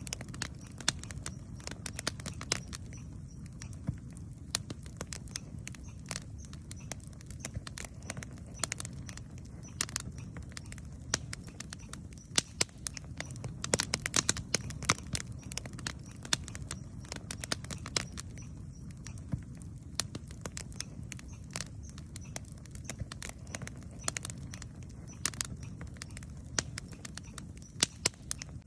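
Campfire wood crackling, with irregular sharp snaps and pops scattered throughout over a low steady rumble.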